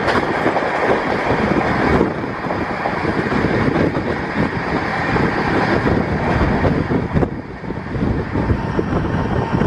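Passenger coach of an express train running at speed: a steady rumble of wheels on the rails mixed with a rush of wind. The high end of the noise drops back at about two seconds and again at about seven seconds.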